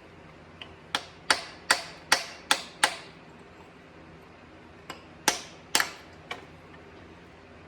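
Hammer blows on metal during teardown of a tractor transmission: six sharp, ringing strikes at about two or three a second, then after a pause two more, with a few lighter taps between.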